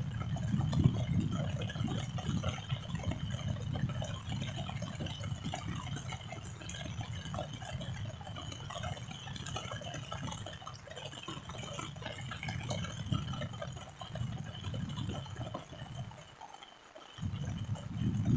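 Rain falling steadily, with many scattered drops ticking and a low rumble underneath that drops out briefly near the end.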